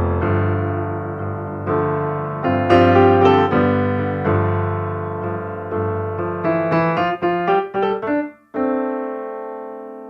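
Background piano music: a melody over sustained chords, a quick run of notes about two-thirds of the way in, then a held chord that slowly fades.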